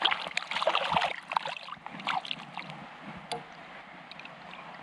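Water splashing and sloshing close by for the first couple of seconds, fading into the steady rush of the flowing river.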